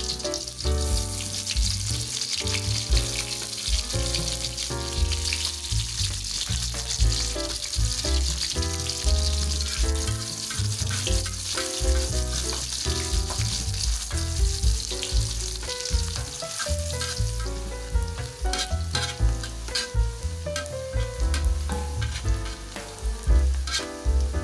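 Sliced garlic and shallots sizzling in hot oil in a wok, with a spatula stirring and scraping against the pan.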